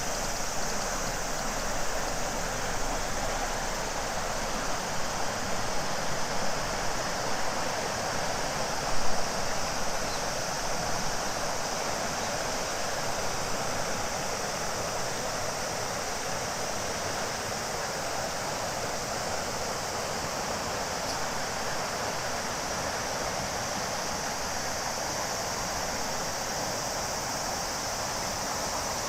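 A large river flowing with a steady rush of water, with a steady high-pitched cicada chorus above it. A brief louder low bump comes about nine seconds in.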